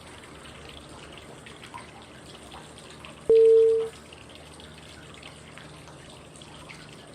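Flowing-water white noise, a steady trickle with small drips. About three seconds in, one short clear cue tone sounds: in a 5-5-5 breathing exercise it signals the move to the next breathing phase.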